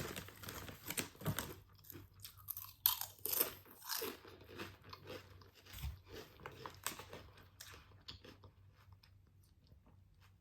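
Close-miked chewing of crunchy food, with irregular crunches and mouth sounds that thin out and grow quieter over the last few seconds.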